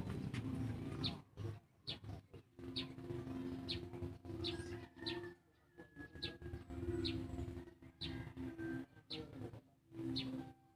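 A bird chirping, a short high note repeated about once a second, over a low humming tone that comes and goes.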